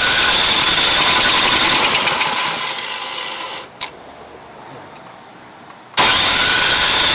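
Snowblower engine being cranked by its electric starter without firing: a steady whirring that tapers off and stops after about three and a half seconds, a single click, then cranking again from about six seconds in.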